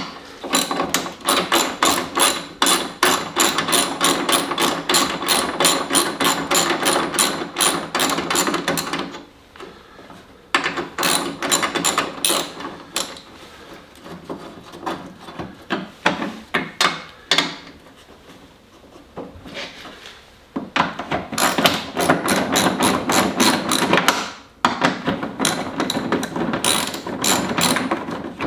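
Hand ratchet wrench clicking rapidly in several long runs with short pauses between them, as fasteners are undone to take the snowblower's carburetor and fuel tank off.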